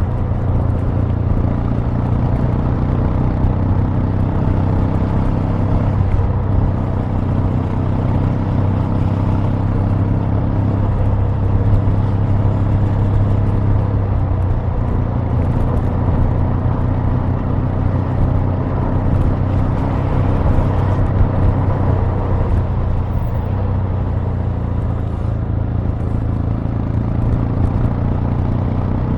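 Kawasaki W800's air-cooled 773 cc parallel-twin exhaust note running steadily, its pitch shifting slightly a few times.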